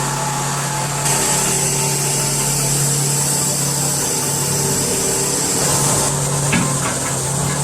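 Heavy logging machinery's diesel engine running steadily, a constant low drone under a hiss that brightens for a few seconds in the middle.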